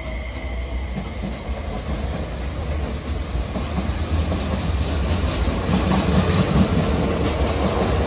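MTR SP1900 electric multiple unit pulling out of the station, its running noise growing steadily louder as it gathers speed.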